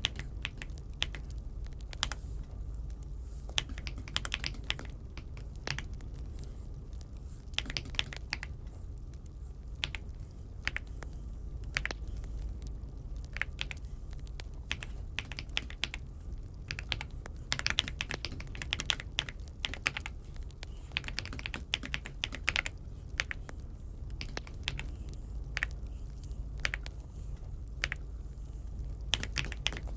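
Aula F75 mechanical keyboard being typed on: irregular keystrokes in short runs with pauses between, busiest for a few seconds past the middle, over a steady low hum.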